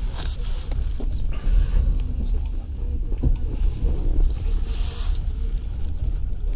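Running noise inside a moving passenger train carriage: a steady low rumble of the wheels on the track, with a few knocks from the wheels and two brief rushes of hiss.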